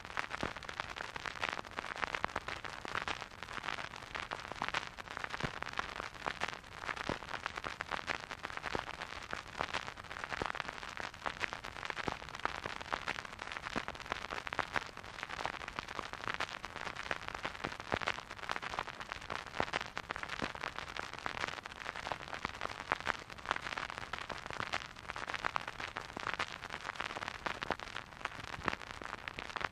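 Vinyl record surface noise from a turntable: dense crackle and pops over a steady hiss, with no music.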